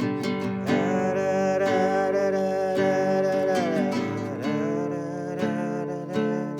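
Music: acoustic guitar strumming chords, with a long held melody note over them from about a second in that bends away near the middle.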